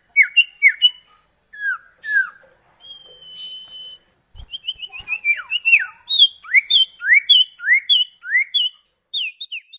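Iora (cipoh kacat) singing a run of clear whistled notes: falling slurs at first, a held note about three seconds in, a quick string of short notes, then a steady series of rising slurs.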